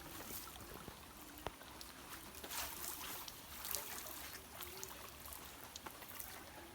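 Light rain with scattered drips and small splashes of water, faint, with many sharp little ticks.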